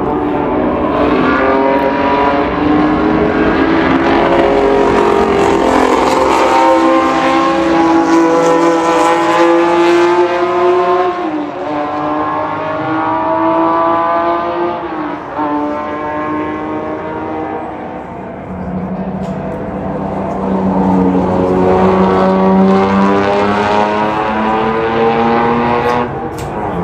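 Historic racing car engines at full throttle, climbing in pitch as the cars accelerate. The pitch drops sharply twice, about 11 and 15 seconds in, on upshifts. A second engine note joins near the end as more cars come by.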